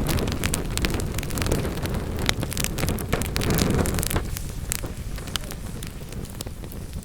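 Wood fire burning in a fireplace: a steady low rumble of flame with frequent sharp crackles and pops, the rumble easing about four seconds in.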